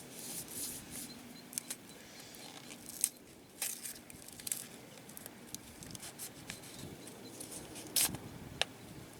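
Scattered rustling with a few sharp clicks, of small objects being handled.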